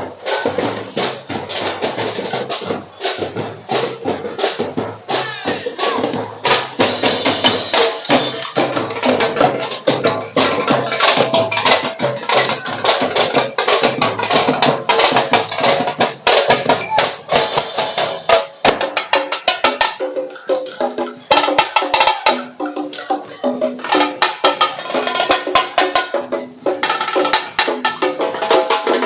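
Street-dance parade music driven by fast, dense percussion: drums and sharp wood-block-like strikes, with a lighter low end in the second half.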